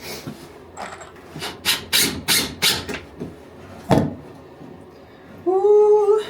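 Quick rasping strokes on wood, about three a second, like a hand saw working through a board, then a single sharp knock. Near the end comes a brief pitched sound that rises in pitch.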